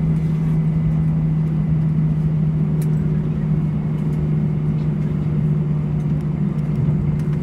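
Steady interior noise in an Airbus A320 cabin on the ground after landing: a constant low hum from the engines and air systems, with no change in level.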